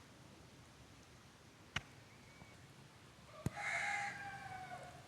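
A rooster crows once near the end, one long call with a slightly falling pitch. Two sharp clicks come before it, about a second and a half apart.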